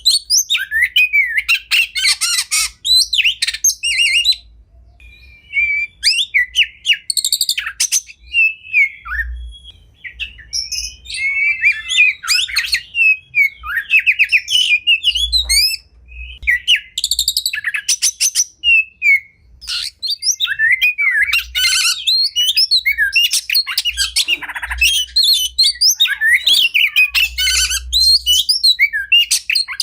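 Oriental magpie-robin (kacer) singing a long, varied song of sliding whistles, chirps and rapid trills, broken only by a few short pauses.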